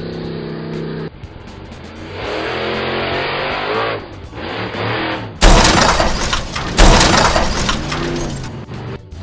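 Cartoon sound effects over background music: an engine revving up and down, then two sudden loud crashes with glass shattering as a monster truck lands on and crushes a car.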